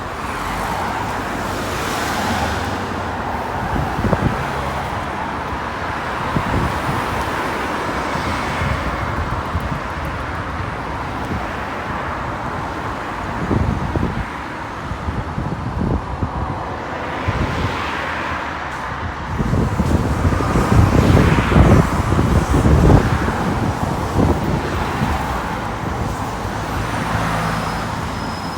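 Road traffic going past: a series of vehicles passing one after another, with a louder, deeper pass about two-thirds of the way through.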